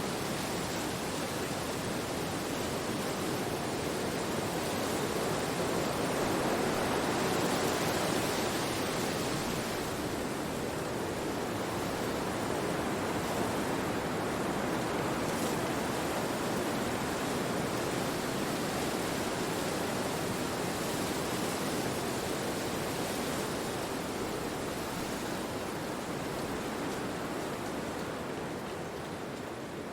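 Wind rushing through forest trees: a steady, even rush that swells a little about a third of the way in and eases off toward the end.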